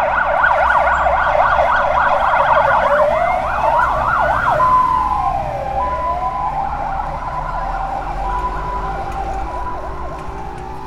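Ambulance siren sounding in a fast yelp, changing about three seconds in to slow rising and falling wails and then to an alternating two-note hi-lo tone, over a low vehicle engine hum. The sound is loudest at first and fades toward the end.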